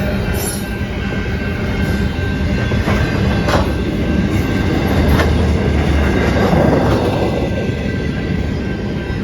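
Freight cars of a Union Pacific mixed manifest train rolling steadily past, with a few wheel clacks and a thin steady wheel squeal over the rumble.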